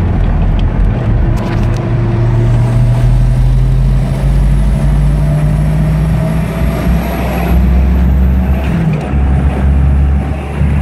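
Volvo 242's turbocharged engine pulling under acceleration, heard from inside the cabin along with road noise. The engine note climbs steadily with a thin high whistle rising alongside it. About nine seconds in the note drops and the whistle cuts off, then both climb again.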